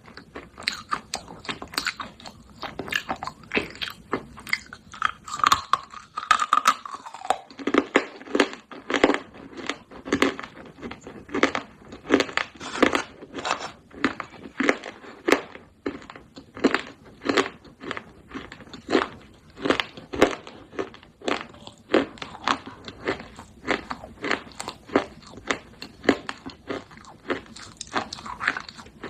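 Close-up crunching and chewing of baked clay pot pieces: a steady run of crisp crunches, about two a second.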